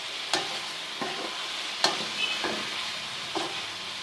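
Chicken and spice masala sizzling in ghee during the bhuna stage of a chicken korma, a steady hiss. It is being stirred, and the stirring clicks sharply against the pan about five times.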